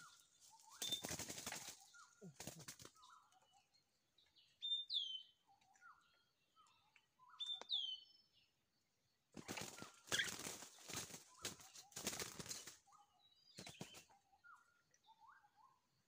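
Birds calling, short falling notes over and over and two high sweeping chirps. Between them come several loud bursts of rustling, the longest run about two-thirds of the way through.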